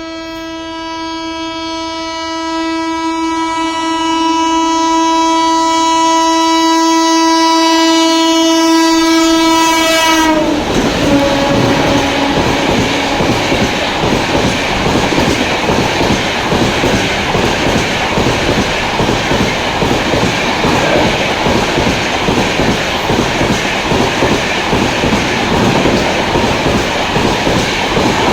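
Express train's horn sounding one long unbroken blast, growing louder as the train approaches. It drops in pitch as the locomotive passes and cuts off about ten seconds in. Then the LHB coaches rush past at speed without stopping, their wheels clattering rapidly over the rail joints.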